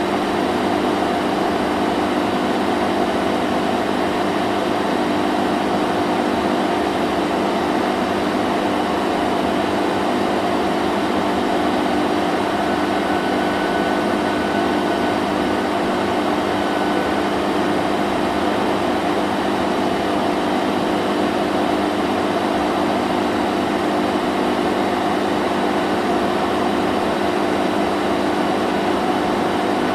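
Vacuum cleaner running continuously: a steady, unchanging motor hum over rushing air.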